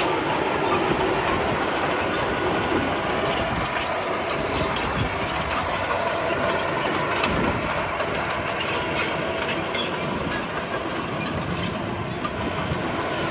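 Komatsu D31P crawler bulldozer working, its diesel engine running steadily under irregular metallic clanking and rattling from the tracks.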